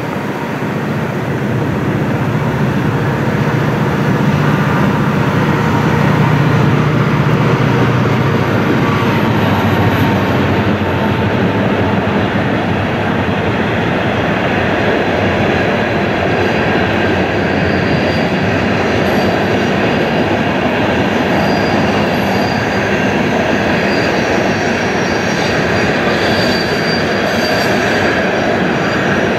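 Freight train rolling past, its cars making a steady rolling noise. A low drone fades out over the first several seconds, and faint high wheel squeal comes and goes in the second half.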